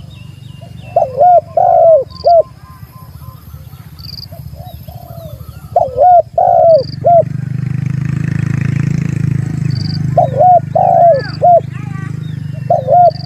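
Spotted dove (tekukur) cooing repeatedly, a rival-calling song used to lure other doves: about four phrases of a few arching coos each, with faint small-bird chirps above and a low rumble building from about halfway.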